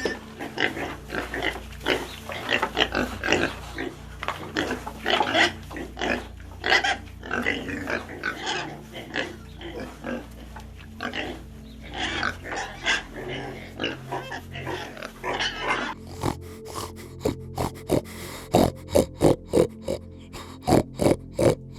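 Animal calls in a quick, irregular series of short grunt-like bursts. About three-quarters of the way through, they change to shorter, more evenly spaced pulses.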